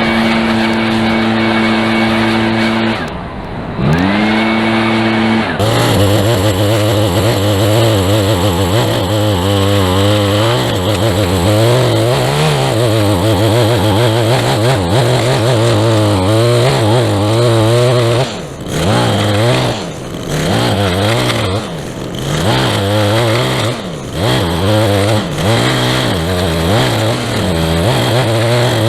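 Small gas engine of a lawn-care tool running at high speed. It throttles down briefly about 3 seconds in and revs back up, then runs with a wavering pitch as if under load, with several short dips in the second half.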